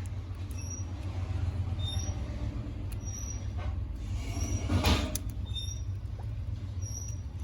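Guinea pigs feeding from a hand, with short high squeaks every second or so over a steady low rumble; a louder noise about five seconds in.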